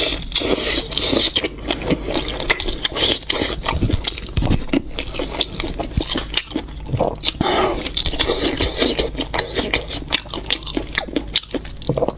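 Close-miked biting and chewing of fried food on skewers, a dense run of crisp, crackling mouth sounds.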